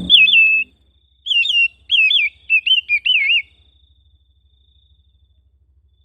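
Oriental magpie-robin singing: four short phrases of wavy, up-and-down whistles in quick succession over the first three and a half seconds, then a pause.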